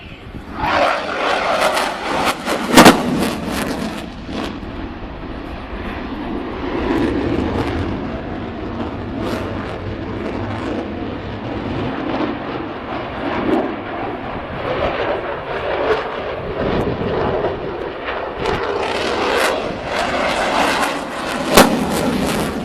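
Eurofighter Typhoon's twin EJ200 jet engines running loud in a display pass, a steady rushing roar. Two sharp cracks stand out, about three seconds in and near the end.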